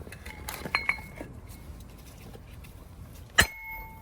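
Copper hammer striking a socket to drive an old wheel bearing out of its housing, each blow ringing briefly as metal. A quick run of lighter blows comes in the first second, and one loud blow near the end.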